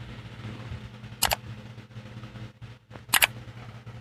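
Two sharp double clicks about two seconds apart, over a steady low hum.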